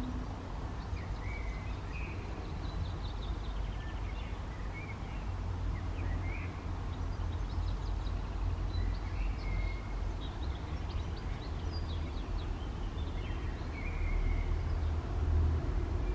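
Birds chirping in short scattered calls over a steady low rumble of background noise.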